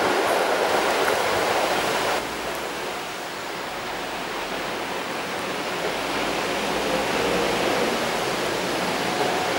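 Steady rushing noise of a passing train that drops off suddenly at an edit about two seconds in. After it, a softer rushing noise slowly swells as an electric freight locomotive hauling coal wagons approaches from afar.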